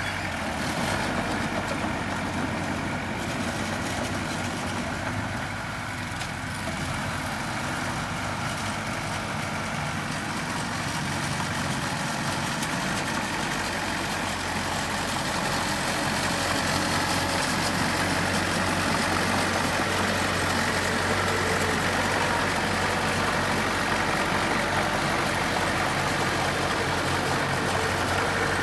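Diesel engine of heavy construction machinery running steadily, getting a little louder about sixteen seconds in.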